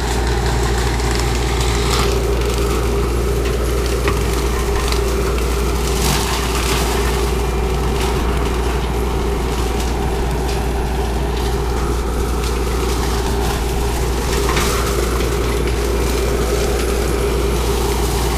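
Bobcat skid-steer with a forestry cutter attachment running steadily, a constant whine over a low hum as the cutter head mulches brush, with a few short sharp cracks of wood.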